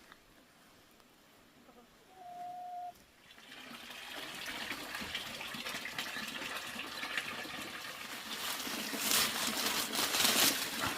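Water trickling and running, building up from about three seconds in and growing louder toward the end. Just before it, a brief steady whistle-like tone sounds once.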